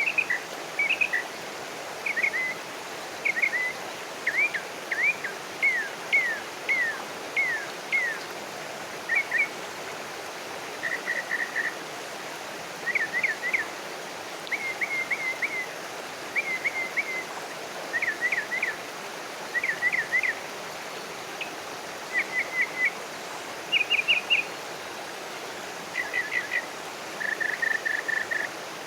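A songbird calling in short phrases of quick high whistled notes, roughly one phrase a second: downslurred notes at first, then rapid little trills. Behind it runs a steady outdoor hiss.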